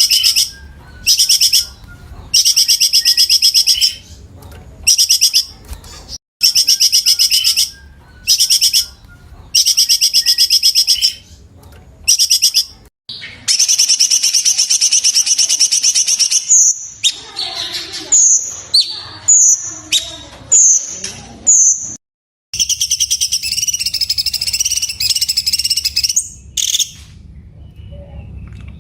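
Cucak cungkok song: loud, fast, high trills in bursts of about a second, separated by short pauses. Two longer runs of trilling, and midway a series of short separate whistled notes.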